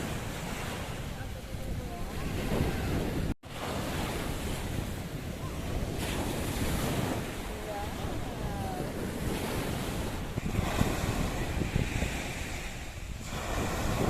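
Sea waves washing on the shore, with wind buffeting the microphone. The sound cuts out briefly about a third of the way in.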